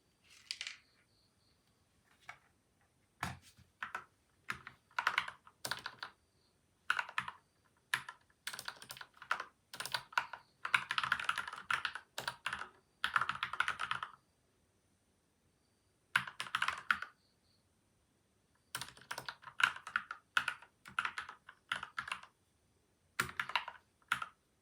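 Typing on a PCL87 mechanical keyboard with Gateron Milky White and Outemu Yellow switches, lubed and dampened with tape and foam. The keystrokes come in bursts of rapid clicks, with short pauses between the bursts.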